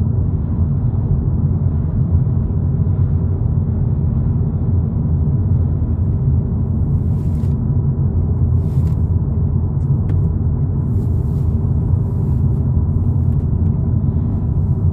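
Steady low road and engine rumble heard inside the cabin of a 2022 Volkswagen Polo GTI cruising on a flat road, with a few faint rattles that the driver thinks come from a door.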